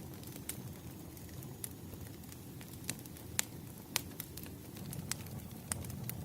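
Wood fire crackling: a run of sharp, irregular pops over a low steady rumble, the loudest pops in the middle.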